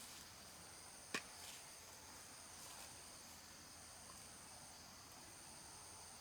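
Faint, steady high-pitched chorus of insects, with one sharp knock about a second in.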